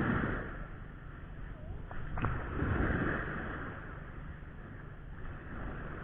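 Surf washing onto a beach in two swells, the first at the start and a longer one about two seconds in, over a steady rush of wind and sea, with a faint click near the second swell.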